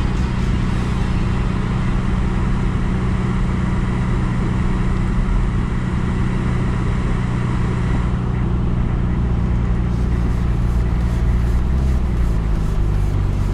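Car engine and road noise while driving, a steady hum that drops in pitch about twelve seconds in as the car eases off.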